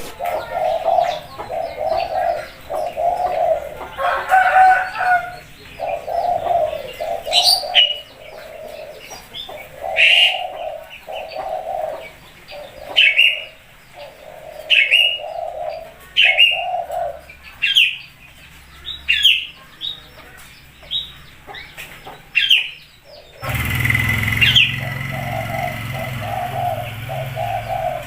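A derkuku dove cooing in a steady run of low pulsed coos, while an Asian pied starling (jalak suren) calls over it with sharp, falling notes about every second and a half. Near the end a louder steady rumbling noise comes in under the birds.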